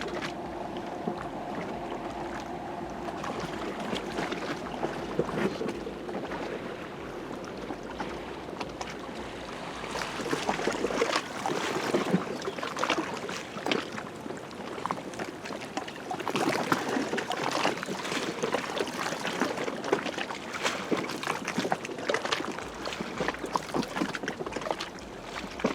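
Wake waves from a passing passenger ship washing and splashing against the riverbank. The splashing gets louder and choppier about ten seconds in.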